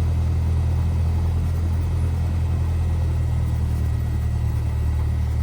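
The Cessna 172R's four-cylinder Lycoming engine and propeller running, a steady low drone with no change in pitch.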